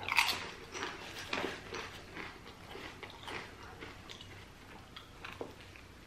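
Crunching a salt and vinegar potato chip: a loud first crunch as it is bitten, then irregular chewing crunches that grow fainter.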